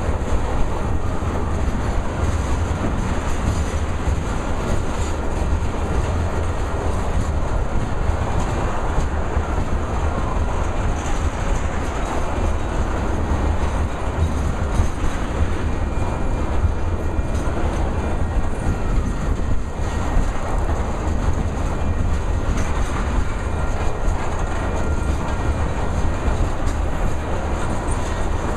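Freight train of ethanol tank cars rolling past: a steady, loud rumble with wheels clacking over the rail joints, unbroken throughout.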